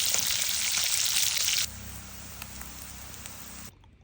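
Pork belly frying in oil in a pan, a loud sizzle that drops suddenly to a quieter sizzle about one and a half seconds in, then fades to near quiet near the end.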